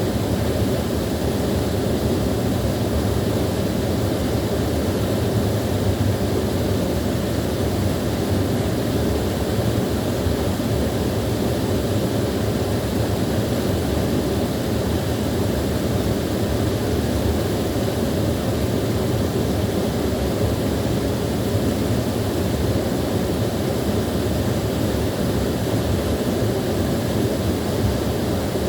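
Small waterfall running: a steady, even rush of falling water, heaviest in the low range.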